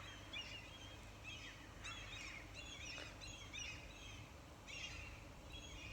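Small wild birds chirping in quick, repeated short calls, several at a time, fairly faint over a low hum.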